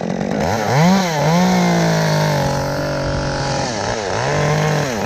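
Two-stroke chainsaw revved up to full speed and held through a cut, easing off about three and a half seconds in, then revved up again briefly.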